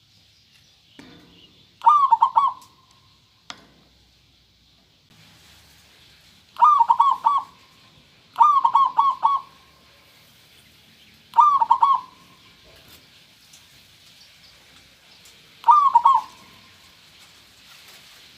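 Zebra dove (perkutut) cooing: five short phrases of quick rolling notes, spaced a few seconds apart. A single sharp click sounds once, about three and a half seconds in.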